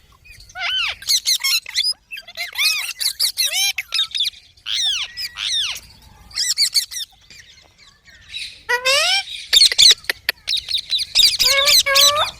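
Rose-ringed parakeets giving repeated sharp, high screeching calls in quick bursts, with a short lull about seven seconds in before a denser run of calls.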